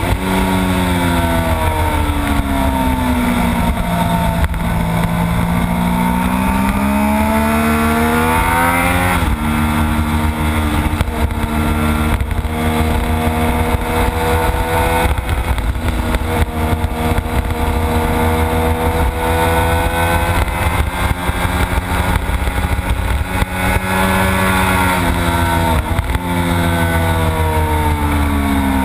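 Triumph Daytona 675's inline three-cylinder engine under way at track speed, its pitch falling off and then climbing for several seconds until a gear change about nine seconds in, then rising and falling with throttle through the rest of the lap. A steady rush of wind on the bike-mounted microphone runs underneath.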